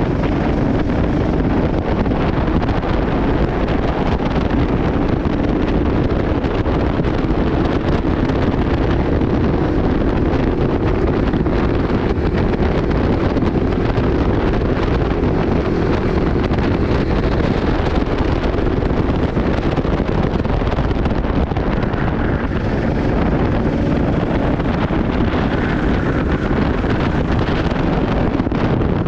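Racing kart engine running at speed, its note wavering a little, under heavy wind noise on an onboard microphone.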